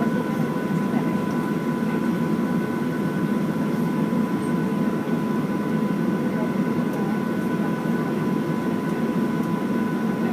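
Steady cabin noise inside a Boeing 737-700 on the ground before takeoff: an even rumble of the jet engines and air conditioning with two faint, unchanging whining tones, and no rise in power.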